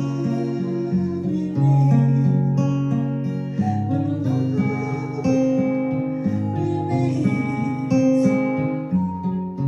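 Acoustic guitar playing an instrumental passage of a song, chords strummed and picked and changing every second or so.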